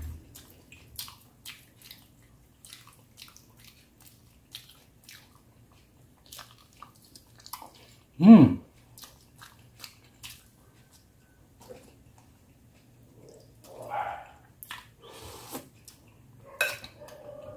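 Close chewing and crunching of crispy roast-pig (lechon) skin, with many small wet mouth clicks and smacks. About eight seconds in, a short, loud vocal sound from the eater falls in pitch.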